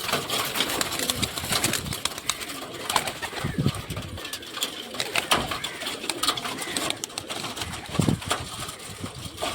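Domestic pigeons cooing, the low coos loudest about three and a half and eight seconds in, over scattered sharp clicks.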